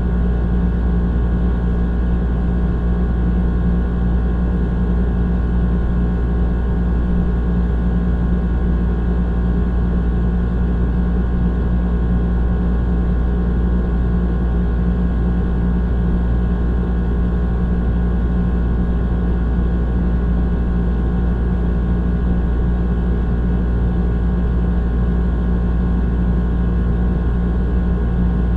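Old air conditioner running steadily: a deep low rumble with a strong steady hum and a mix of higher steady tones, unchanging throughout.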